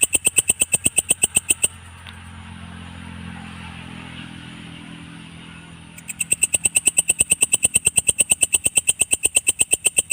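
Belalang kecek katydid (Mecopoda) calling in a loud, even train of pulses, about seven a second. It breaks off about a second and a half in and starts again around six seconds in. In the gap a low, steady engine-like hum is heard.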